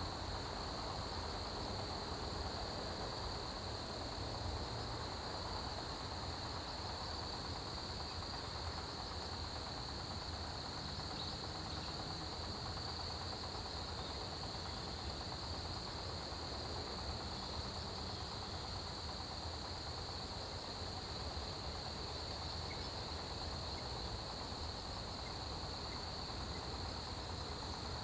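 Chorus of autumn grass insects, crickets among them: a steady high trill with rapid, evenly repeated chirping above it.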